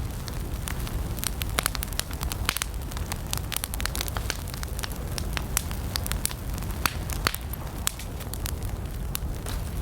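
Campfire of burning wood crackling, with irregular sharp pops and snaps several times a second over a steady low rumble of the flames.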